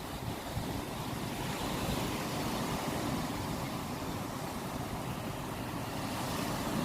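Ocean surf washing and breaking steadily, with a slight swell about two seconds in and again near the end. Wind buffets the microphone.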